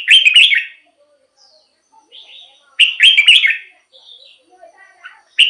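Red-whiskered bulbul singing: short, loud, warbled phrases, one at the start, another about three seconds in and a third beginning at the end, with faint chirps in between.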